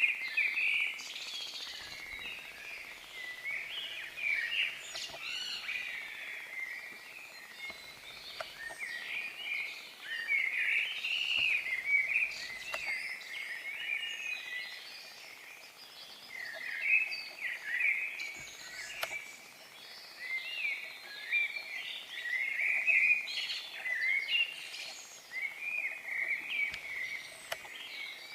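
Dawn chorus: several birds singing at once, a continuous tangle of short, high chirps and trills.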